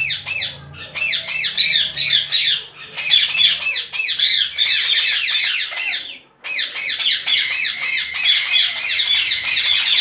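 Many caged parrots squawking and chattering at once: a dense, loud run of short, rapid, high-pitched calls, with a brief break about six seconds in. The racket is raised because a small new cage of budgies has been brought up among them.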